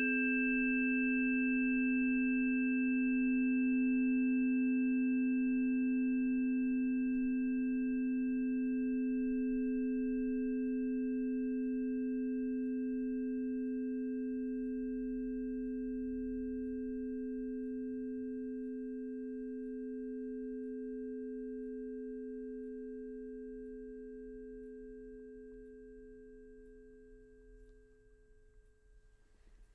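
A struck metal sound-healing instrument rings out: two steady, pure low tones with fainter high overtones, fading slowly away over nearly half a minute.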